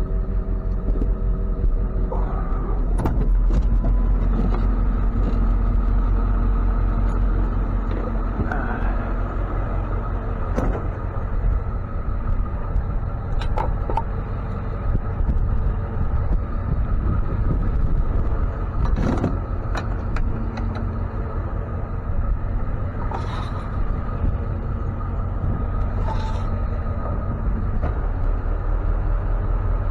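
Tow truck's engine running steadily with a low rumble, with scattered sharp clunks and rattles.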